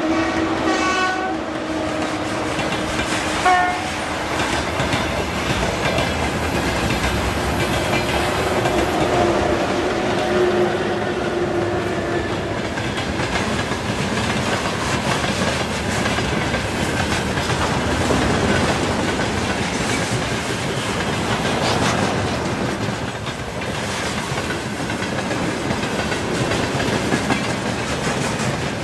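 A long freight train behind VL85 electric locomotives with a 3ES5K 'Ermak' pusher rolling past with a steady rumble and wheel clatter. A locomotive horn is dying away about a second in, and there is a sharp knock a few seconds later.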